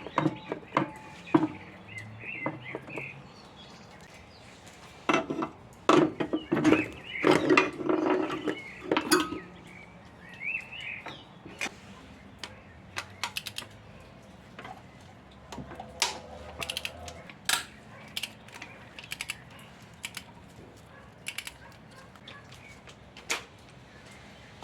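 Metal hand tools and engine parts clinking and clattering: a scatter of sharp clicks and knocks, busiest about five to ten seconds in.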